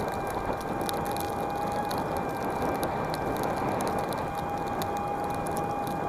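S12X Vita Monster electric mobility scooter driving through snow: a steady drive-motor whine over a constant rush of tyre and wind noise, with scattered small crackles. The whine fades for a couple of seconds in the middle, then returns.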